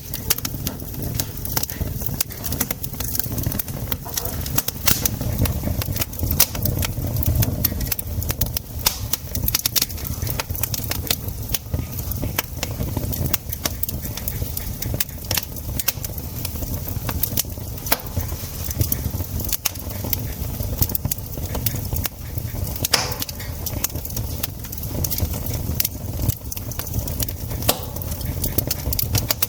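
Campfire crackling: wood burning with irregular sharp pops and snaps over a steady low rumble, with one louder pop that rings briefly about three-quarters of the way through.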